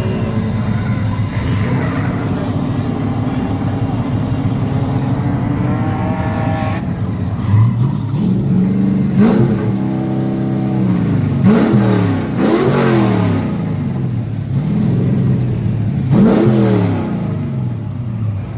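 A car engine running steadily, then, from about seven seconds in, revved hard several times, its pitch climbing and dropping again and again.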